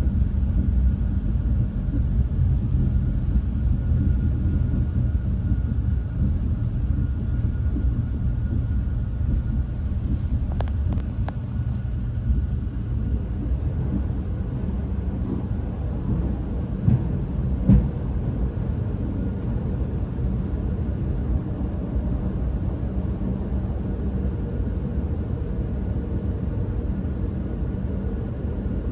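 Steady low rumble of a Renfe Class 130 (Talgo 250) high-speed train running along the line, heard from inside the passenger coach. A few brief clicks come about a third of the way in, and a short knock a little past the middle.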